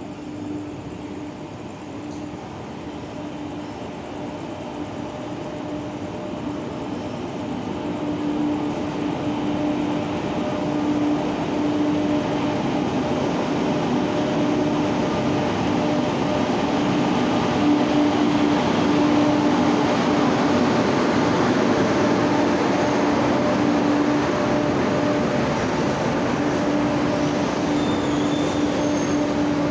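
Indian Railways electric locomotive hauling a freight train of covered goods wagons along the platform track. A steady hum sits over the rumble of the rolling train, growing louder through the first half and then holding as the wagons run past.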